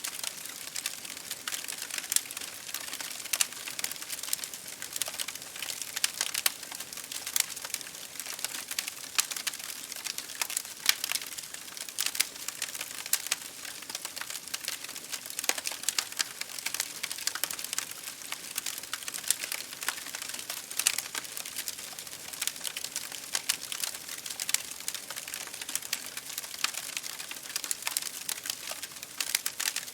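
Wood fire in a fireplace crackling with many irregular sharp pops and snaps, over a steady hiss of rain against a window.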